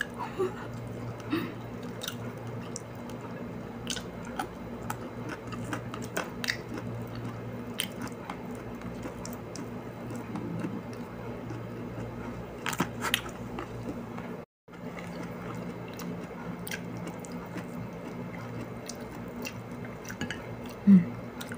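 Close-up eating sounds: chewing, with scattered small clicks and crunches as fried fish is picked apart by hand and eaten, over a steady low hum. The sound drops out for a moment about halfway through.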